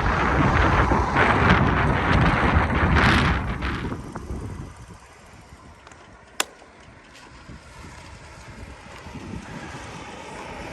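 Wind buffeting the microphone while riding a bicycle: a loud rumble for about four seconds that then dies down to a quieter hiss. A single sharp click about six and a half seconds in.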